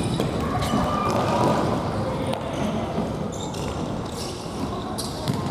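Futsal being played on a gym floor: ball kicks and bounces with players' footsteps in a large echoing hall.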